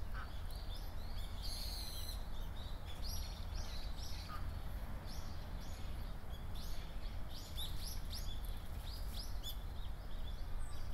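Small birds chirping, many short high calls scattered throughout, with a brief buzzy call about one and a half seconds in, over a steady low background rumble.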